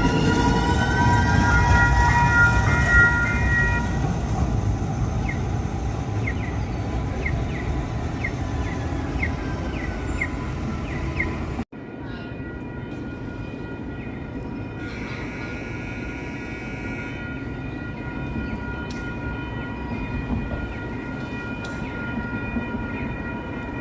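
SacRT light rail train running past, its horn sounding in the first few seconds, then a run of evenly spaced dings about twice a second. The sound cuts off abruptly halfway through and resumes as a quieter train rumble with steady tones.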